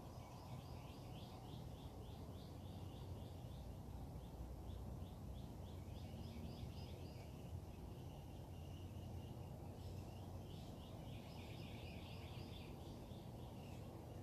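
Faint birdsong at dawn: several birds giving rapid runs of short repeated chirps and trills over a steady low background rumble.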